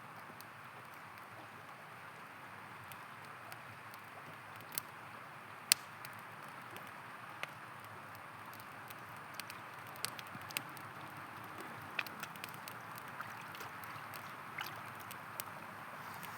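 Steady rushing of a river with a campfire crackling over it: scattered sharp pops, the loudest just before six seconds in.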